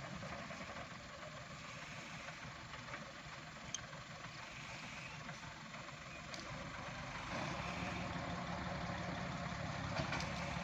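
Truck engine idling steadily, getting louder about seven and a half seconds in.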